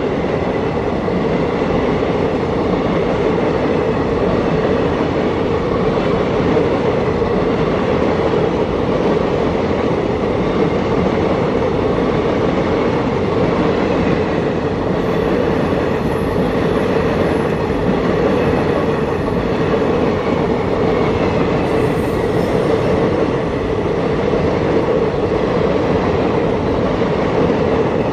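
Passenger coaches of an express train rolling past close by: a steady, loud rolling noise of steel wheels on the rails.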